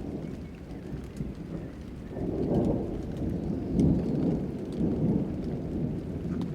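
Thunder rumbling over falling rain. The low rumble swells about two seconds in, rolls on in several waves and eases off near the end, with light raindrop ticks throughout.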